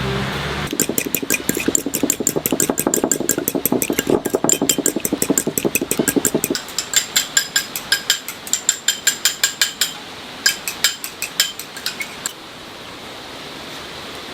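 Rapid, regular knocking, several sharp strikes a second. About halfway through it becomes sparser and sharper, and it stops shortly before the end, leaving a steady hiss.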